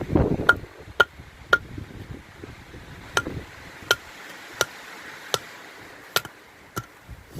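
A wooden baton striking the spine of a knife to split a knotted piece of firewood: about nine sharp knocks at uneven intervals, each with a brief ringing note.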